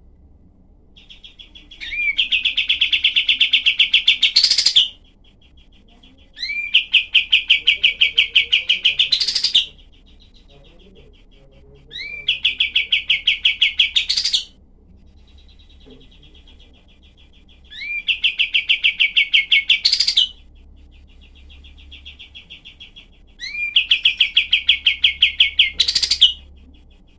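Kapas tembak songbird giving its harsh, rapid-fire 'tembakan' song: five bouts of fast, tightly packed repeated notes, each opening with a short rising note and ending in an upward sweep, with softer twittering between bouts.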